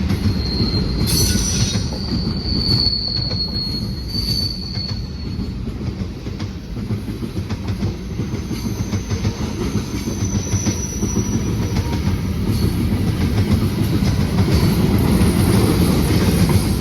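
Freight train cars rolling by with a steady heavy rumble. High wheel squeals ring out in the first few seconds and again near the middle.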